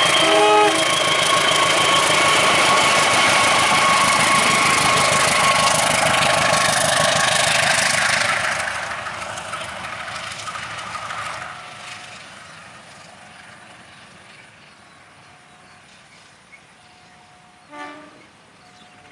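Train passing over a level crossing: loud, steady wheel-on-rail noise with a few steady high ringing tones, fading away over about four seconds as the end of the train goes by. A brief pitched sound is heard about half a second in and again near the end.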